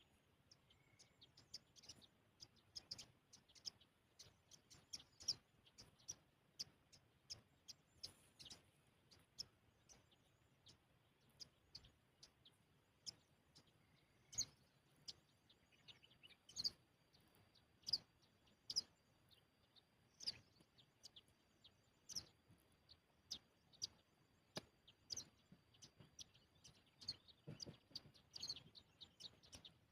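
Irregular sharp ticks of water drops falling onto a hard surface, a few a second and uneven in loudness. A faint steady high tone joins about halfway.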